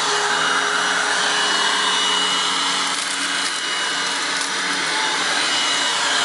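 Hoover WindTunnel Self Propelled upright vacuum (U6485900, 12 amp motor) running steadily on carpet while being pushed along, a loud constant motor whine and hum with small shifts in pitch.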